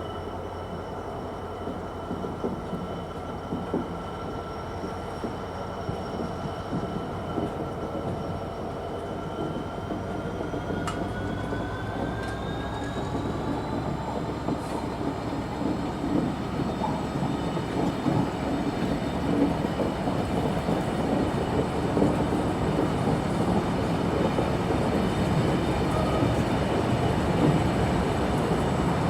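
A train approaching and growing steadily louder, its rumble building, with a high steady whine that slides up in pitch about halfway through and then holds.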